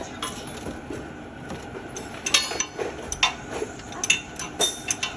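Metal clinking and knocking: a string of irregular sharp metallic strikes with short ringing, starting about two seconds in, typical of tools worked against metal engine parts.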